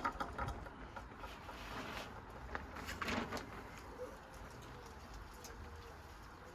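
A few faint knocks and clatters in the first few seconds, then a bird cooing softly in the background.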